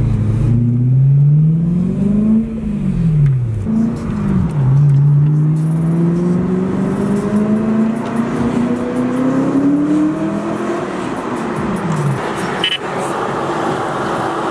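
BMW E90 M3's 4.0-litre V8 engine accelerating: the revs climb and drop back within the first four seconds, then climb slowly for about six seconds before falling off near the end.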